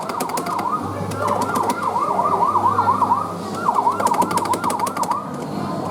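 Falgas fire-truck kiddie ride playing its electronic siren sound effect through its speaker: a fast warbling yelp in two runs, with a short break about three seconds in. A steady low hum runs underneath.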